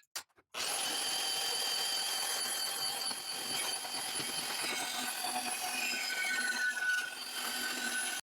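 Portable bandsaw starting with a click and cutting through exhaust tubing: a steady metal-cutting hiss with high, squealing blade tones, one of them sliding down in pitch near the end, before the saw stops abruptly.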